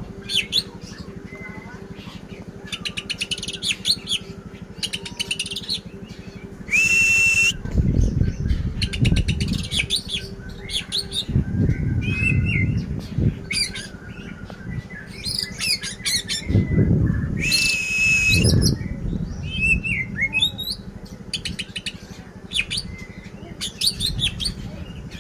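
Oriental magpie-robin (kacer) singing a clear, varied song of repeated whistled and chattering phrases, with a long steady whistle about seven seconds in and again near eighteen seconds. Low rumbling noise comes and goes under the song in the middle stretch.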